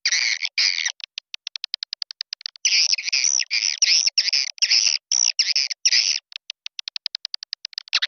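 Recorded swiftlet calls played as a lure: fast trains of dry clicks, about ten a second, alternating with dense high chirping twitter. The clicks run about a second in and again near the end, with the chirping in between.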